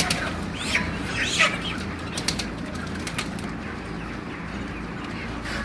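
Poultry calling: a few short chirping calls in the first second and a half, then several sharp clicks about two to three seconds in, over a steady low background hum.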